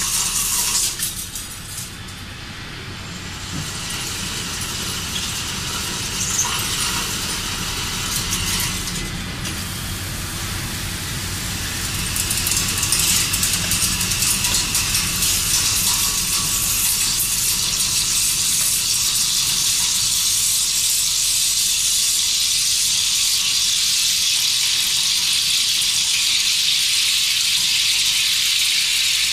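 Heavy industrial machinery working: a steady hissing, crackling noise that dips about a second in and grows denser and louder from about halfway through.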